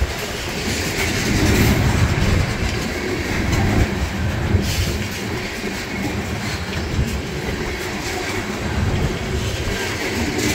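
Tank cars of a freight oil train rolling past: a steady rumble of steel wheels on rail, with wheel clicks over the rail joints.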